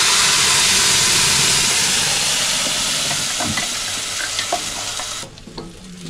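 Ground masala gravy paste sizzling loudly in hot oil and cumin in a kadhai as it is stirred. The sizzle fades slowly, then cuts off suddenly about five seconds in, leaving only faint clicks from the stirring.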